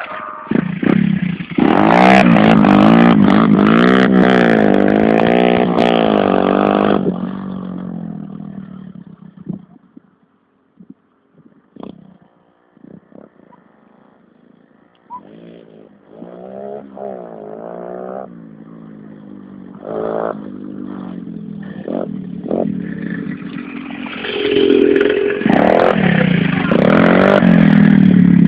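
Small off-road motorbike engines revving hard and passing close. The sound is loud for the first several seconds, dies away to almost nothing around the middle, then builds back up with more revving and is loud again near the end.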